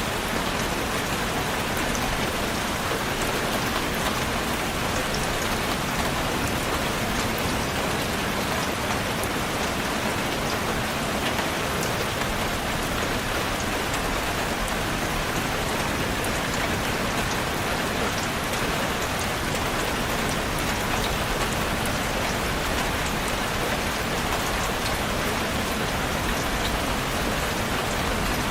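Steady rain falling, an even hiss with many small drop ticks, unchanging throughout.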